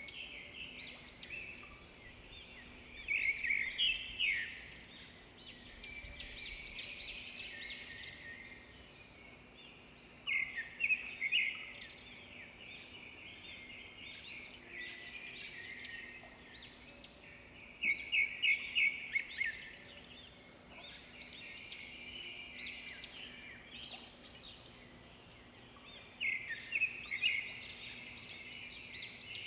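Birds chirping and twittering continuously, with loud bursts of rapid high notes every several seconds.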